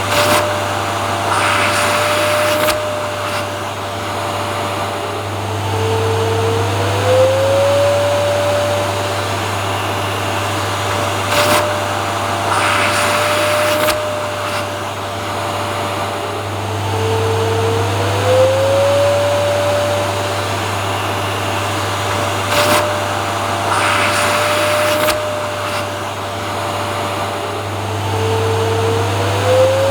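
Vacuum cleaner motor running continuously as white noise. Its steady whine dips lower and glides back up, and short bursts of hiss come and go, in the same pattern about every eleven seconds.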